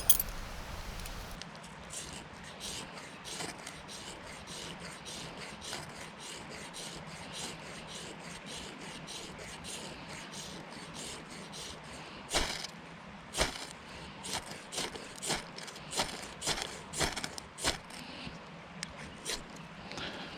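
Repeated scraping and rubbing strokes, about two to three a second, growing louder and sharper about twelve seconds in.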